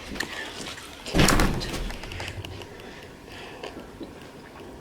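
Close-miked eating sounds: a short, loud noisy burst about a second in, then faint scattered mouth clicks.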